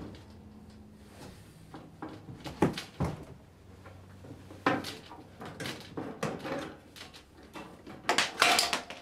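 Irregular metallic clunks and rattles as the sheet-metal end bracket holding the tombstone lampholders is worked loose from a fluorescent light fixture, with a loud cluster of knocks near the end.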